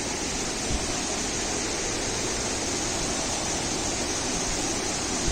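Catherine Falls' water pouring down, a steady, even rush.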